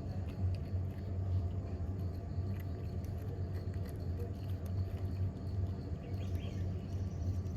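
Outdoor ambience: a steady low rumble, like wind on the microphone, with faint scattered ticks and a few faint chirps near the end.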